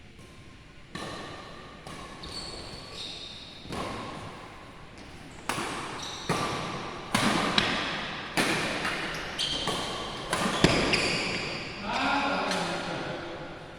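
Badminton rally in an echoing hall: sharp racket strikes on the shuttlecock about once a second, getting louder as the rally goes on, with thin high squeaks between the strikes.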